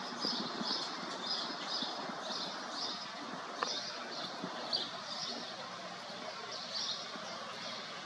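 A bird chirping in a quick series of short, high chirps, about two a second, with a brief pause near the end, over a steady rushing background. One sharp click a little past the middle.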